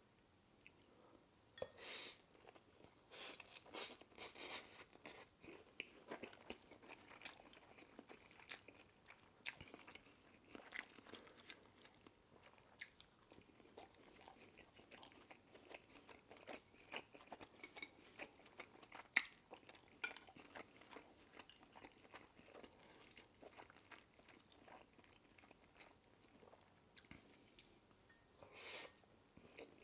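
Close-miked chewing and biting of food: a string of faint, short crackly crunches and mouth clicks, with louder bites about two, four and eleven seconds in and one sharp crunch near the middle.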